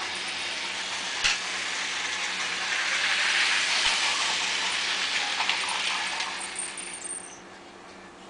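A Lego train running along plastic track, its wheels and motor making a rattling hiss that grows louder as it passes close and then fades away, with a few sharp clicks.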